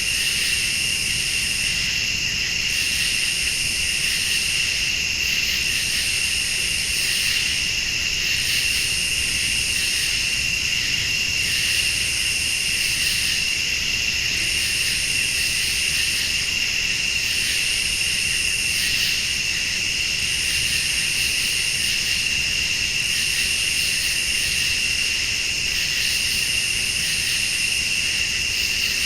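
A night chorus of crickets and late-summer insects: a steady high-pitched trill under a still higher buzz that pulses on and off about every two seconds.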